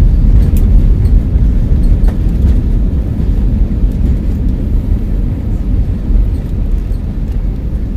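Loud low rumble of a landing airliner's jet engines, easing off slowly toward the end.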